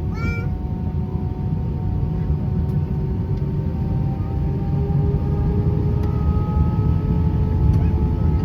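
Airbus A320's jet engines heard from inside the cabin: a steady low rumble with thin whining tones that slowly rise in pitch as the level builds, the engines spooling up for take-off.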